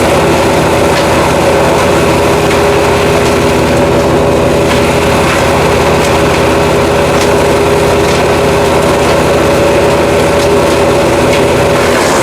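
Jansen GTS-1500 wood chipper's engine running at a steady speed, with a few faint clicks over it.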